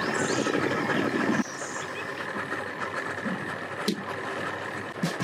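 An engine running steadily, its level dropping noticeably about a second and a half in, with a few faint bird chirps.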